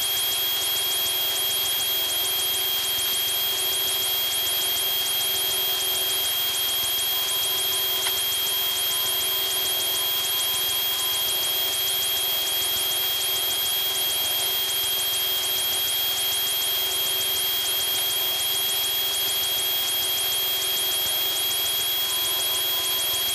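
Piper Tomahawk's single piston engine and propeller running steadily at climb power just after takeoff, heard inside the cockpit. A steady high whine holds over the drone throughout.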